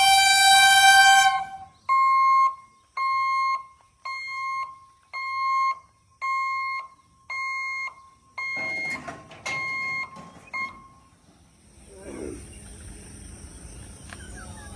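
A long horn blast cuts off about a second in, then an electronic warning beeper sounds nine times, about once a second, with some clatter near the last beeps, followed by a faint low rumble.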